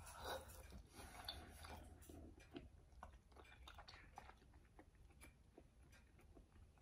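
Faint chewing of a bite of baked Caesar chicken breast: soft, scattered mouth clicks and ticks over a low steady room hum.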